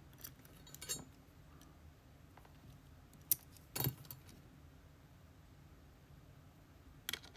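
Small metal lock parts (pins and master wafers from a disassembled pin-tumbler cylinder) clicking and clinking as they are handled, a few separate light clicks with the sharpest about three to four seconds in.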